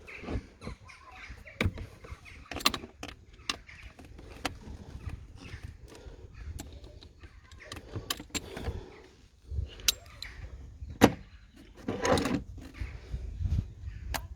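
Irregular metallic clicks and knocks of hand tools working the 8mm bolts of the thermostat housing, with the loudest knock about eleven seconds in.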